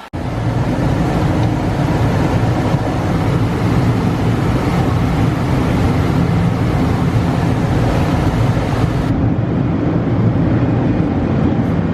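Loud, steady drone of a large vehicle engine running at a constant pace, with a strong low rumble.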